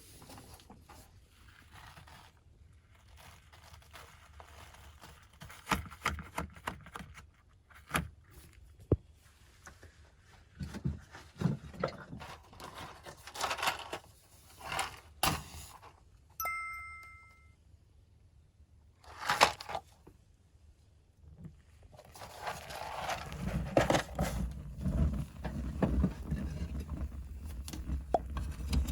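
Firewood being handled and laid for a fire in an in-room ondol firebox: scattered wooden knocks, scrapes and paper-like rustling, with a short ding about two-thirds in. Near the end a steady low rumble with crackling sets in.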